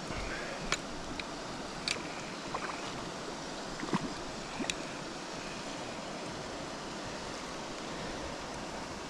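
Steady rush of flowing river water, with a few short sharp ticks in the first five seconds.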